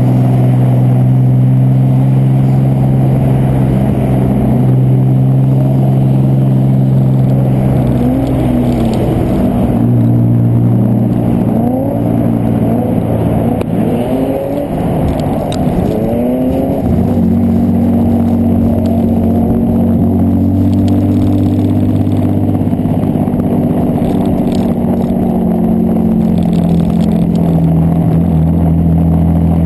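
Mitsubishi 3000GT's V6 engine running hard, heard from outside the car by the driver's door. It holds steady at first, then its revs rise and fall quickly over and over for several seconds in the middle, then it settles back to a steadier, lower note.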